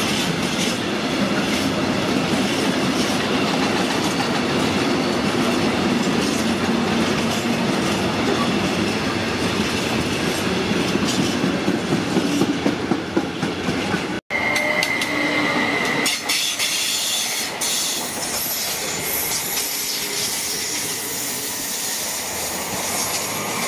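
Freight train of empty container flat wagons rolling past, its wheels clattering over the rails with some squealing. After a sudden cut, a red regional electric multiple unit runs past more quietly, with a short high steady tone just after the cut.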